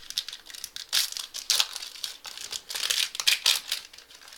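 Foil trading-card pack being torn open and crinkled by hand, a run of irregular crackles and rips.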